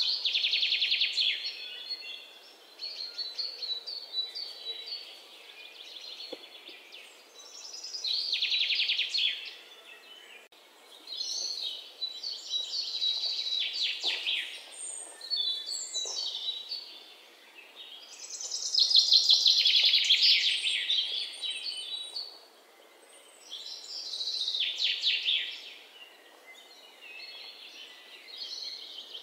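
Birds singing: rapid trilled phrases, each a second or two long, repeating every few seconds.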